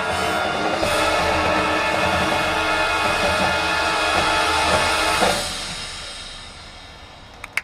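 High school marching band of brass, woodwinds and drumline holding a loud sustained chord with drums and cymbals, cutting off sharply about five seconds in, then the sound dying away in the stadium's echo.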